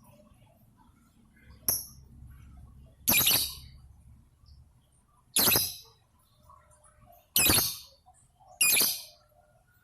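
Lovebird calling: a brief high peep about two seconds in, then four loud, short calls spaced about two seconds apart.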